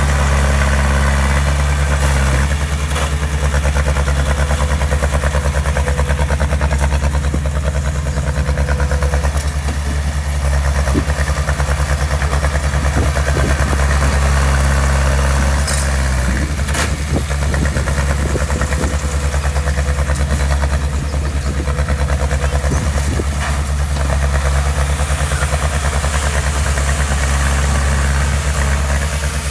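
Diesel engine of a heavy construction machine running steadily at low revs, with a few sharp knocks about halfway through.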